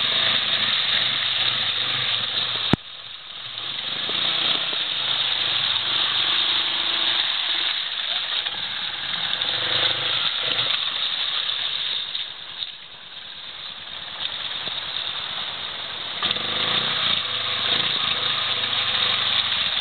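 Arctic Cat 650 ATV engine running, its level rising and falling as it is ridden. There is a sharp click a few seconds in, after which the sound drops and then builds back up.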